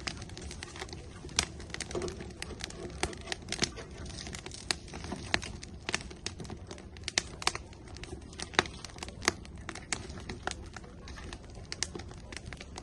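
Firewood burning in an outdoor grill: irregular sharp crackles and pops of the burning wood, several a second, over a low steady rush of flame.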